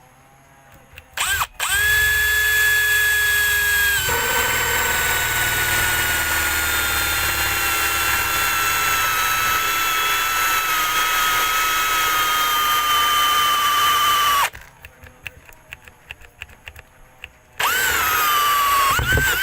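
Electric drill boring into a plastic water tank: a short blip, then a long run of about thirteen seconds whose whine drops in pitch as the bit bites and sags slowly under load. A few small clicks follow, then a second short run near the end, its pitch falling.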